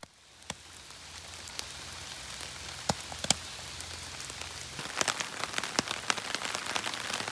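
A steady hiss of water, fading in over the first second, with many scattered sharp taps and crackles that come thicker in the second half.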